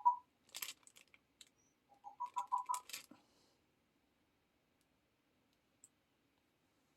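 Parrot's soft chattering over a smart-speaker intercom, in two short spells of low pulsing notes in the first three seconds, mixed with faint sharp clicks.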